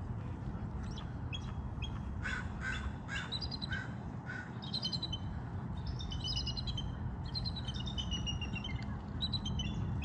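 Bald eagles calling: rapid, high-pitched chittering whistles in short series that step down in pitch, filling the second half. Before them, a crow caws about five times, over a steady low background rumble.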